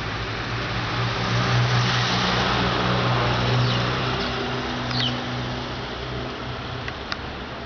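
A road vehicle's engine hum that swells over the first few seconds and then fades, with two short sparrow chirps about four and five seconds in and a few sharp clicks near the end.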